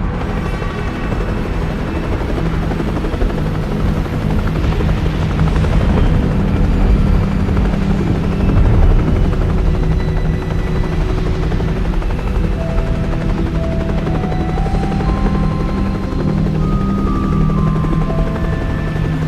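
A steady, loud, low droning rumble with music playing over it. A melody of held notes comes in about two-thirds of the way through.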